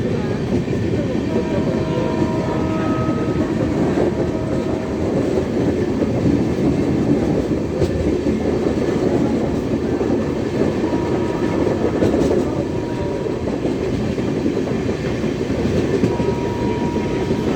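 Passenger train running along the track: a steady, dense rumble of wheels and coaches on the rails, with faint brief high tones now and then.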